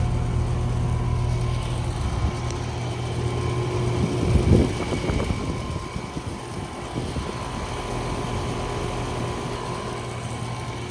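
Bryant Preferred Series heat pump outdoor unit running: a steady compressor and condenser-fan hum with a held whine, from a reciprocating compressor that the owner believes is a two-stage Bristol. A brief low rumble comes about four and a half seconds in, and the hum is a little quieter after it.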